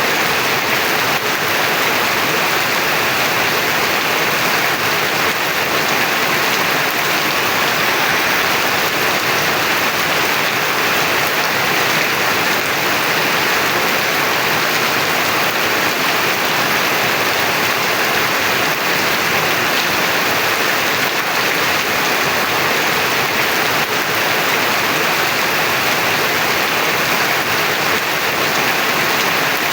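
Heavy rain falling steadily on surfaces, a dense even hiss of drops.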